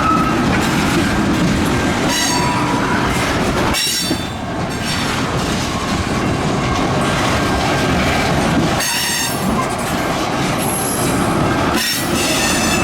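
A freight train's cars rolling through a crossover: a steady rumble with wheels clacking over the switches and several bursts of high flange squeal.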